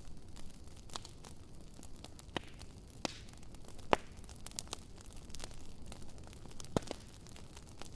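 Wood fire burning in a fire pit: irregular crackles and sharp pops over a low steady hiss, with the loudest pops about four seconds in and just before seven seconds.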